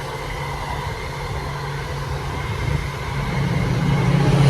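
Car running, a steady low engine and road rumble that grows louder over the last second or so.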